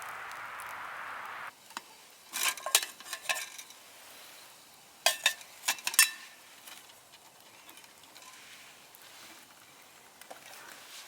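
Metal camp gear clinking: two quick clusters of sharp, ringing metal-on-metal clinks, after a steady hiss that cuts off abruptly about a second and a half in.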